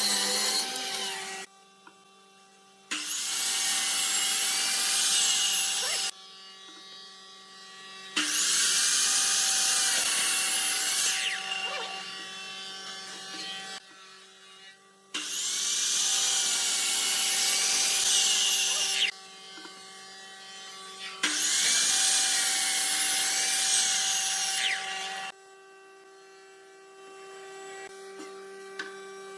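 A woodworking tool working wood in about five spells of a few seconds each, each starting and stopping abruptly, over a steady hum.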